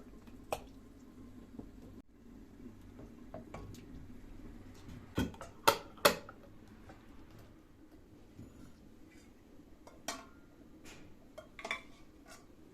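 Kitchen dishes and utensils being handled: scattered clinks and knocks, the loudest a quick run of three sharp knocks about five to six seconds in.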